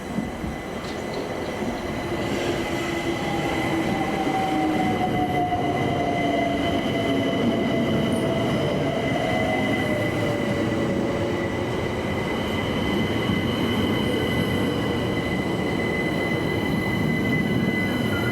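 Electric multiple-unit train running along the platform, its rumble building over the first few seconds and then holding steady. A high steady squeal sits on top, and a motor whine slowly falls in pitch through the middle.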